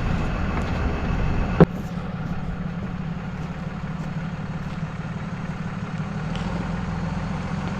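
Truck engine idling steadily, with a single sharp knock about a second and a half in, after which the sound is a little quieter.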